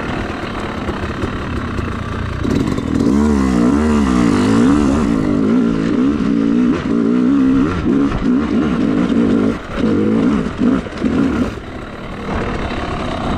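Two-stroke dirt bike engine being ridden, its revs rising and falling over and over. The revs drop briefly a few times near the end before it settles to a lower, quieter run.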